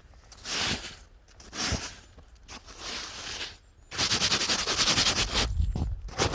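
Snow crunching and swishing as it is dug or pushed aside, in a few short swishes. A louder run of rapid crackling comes about four seconds in.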